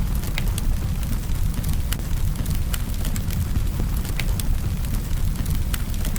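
Campfire burning: a steady low rumble with frequent sharp crackles and pops of burning wood.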